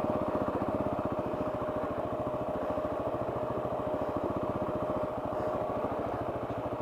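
KTM 690's single-cylinder engine running steadily at low revs, a fast even pulsing, with a thin steady whine above it.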